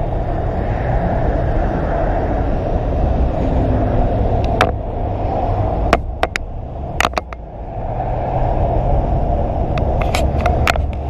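A motorcycle riding, with steady engine and wind rush. About four and a half to seven seconds in, a run of sharp knocks and bangs marks the bike colliding with a car that cut across it, and the rush drops away briefly afterwards.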